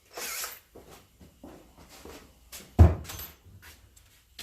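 Workshop handling noises: a short scraping hiss at the start, a heavy thump about three seconds in, then a few lighter knocks and clicks.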